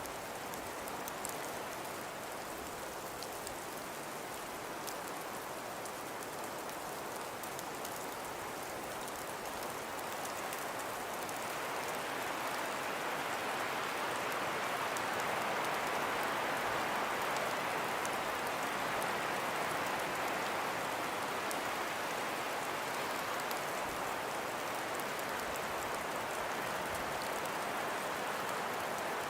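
Steady hiss of wind-blown snow falling, with faint fine ticks of flakes or ice grains. It swells louder about halfway through and stays there.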